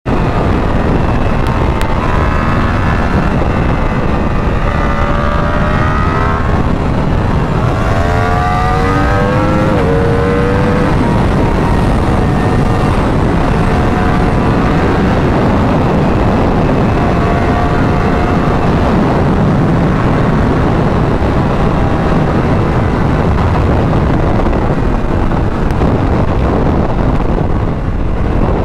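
Yamaha R1's crossplane inline-four running hard through a full Akrapovic exhaust, heard from on board over heavy wind rush. Its pitch climbs and drops with gear changes over the first ten seconds or so, then runs more evenly.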